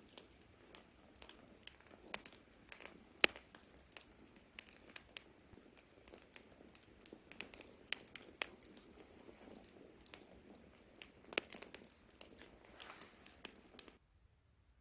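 Wood campfire crackling, with irregular sharp pops and snaps over a faint hiss. Near the end it drops out to total silence for about a second.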